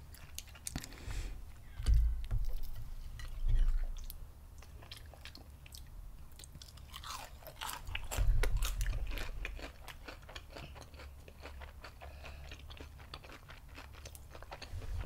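Close-miked chewing of fried shrimp, with crisp crunches and small mouth clicks, densest about halfway through. A few low thumps come in among them.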